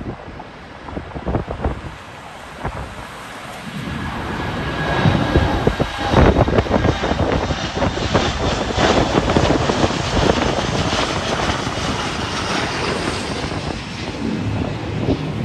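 Jet airliner engines passing close, growing louder about four seconds in and staying loud, with a faint whine over the noise. Wind buffets the microphone at the start.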